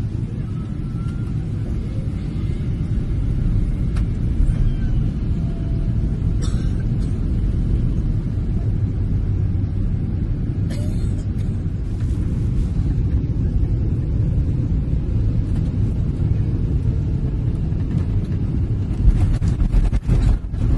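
Boeing 777 cabin noise on final approach: a steady low rumble of engines and airflow, with a few faint clicks and a short cluster of knocks near the end.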